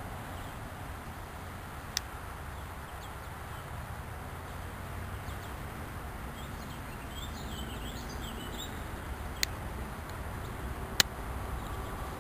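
Bird chirps in the middle, over steady outdoor background noise. Three sharp clicks come at about 2, 9½ and 11 seconds in, the last the loudest.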